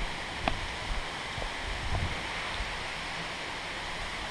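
Rushing water, a steady even hiss, with a few light knocks in the first two seconds.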